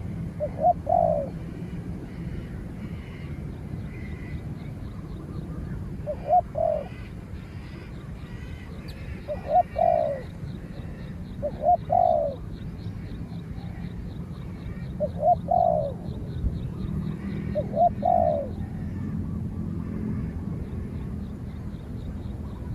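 Spotted dove cooing: six phrases several seconds apart, each a short note followed by a longer falling one. A steady low hum and a faint rapid high ticking run underneath.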